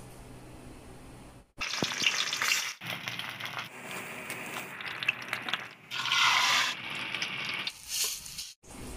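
Food sizzling as it fries in a pan, a dense crackling hiss that starts abruptly about one and a half seconds in and comes as several short clips separated by sudden cuts.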